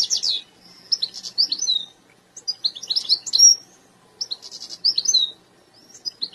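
Domestic canary singing: bouts of fast rolling trills, whistled slides and chirps, each a second or so long, broken by short pauses.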